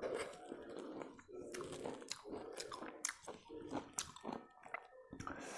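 Close-up sound of a person chewing a hand-fed mouthful of rice and pork-and-greens soup, wet mouth noises with small crunches and clicks repeating throughout.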